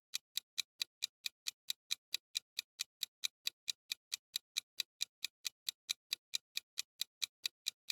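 Fast, even clock-tick sound effect, about five ticks a second, counting down the guessing time in a quiz.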